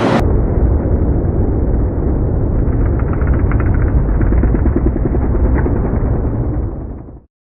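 Muffled dirt bike engine and heavy rumble as heard on an onboard camera in its housing, fading out near the end.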